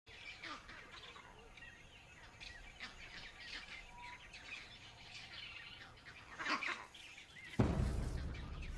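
Birds chirping and calling, many short scattered calls with one louder call about six and a half seconds in; a deep rumble comes in suddenly near the end.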